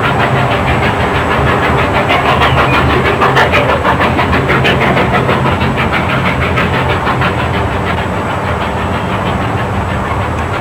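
Narrow-gauge train running along the track at a steady pace, wheels clattering rapidly over the rails.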